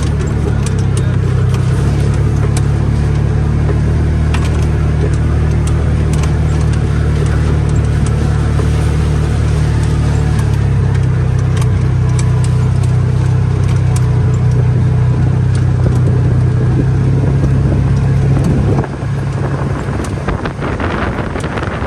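Engine of a vehicle being driven, running steadily with a low drone; its note shifts about ten seconds in and falls away near the end, leaving a rushing noise.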